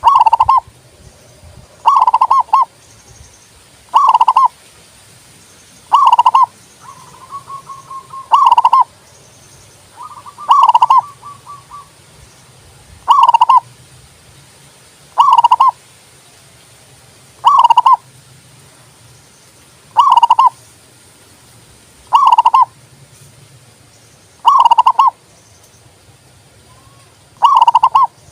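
Zebra dove (local perkutut) singing its cooing song: a short phrase about every two seconds, thirteen times, with softer trilled cooing between a few of the phrases.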